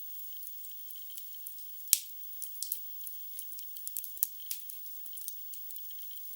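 Wood fire burning in a fireplace, crackling with scattered sharp pops and one loud snap about two seconds in; the crackle is thin and high, with no low rumble.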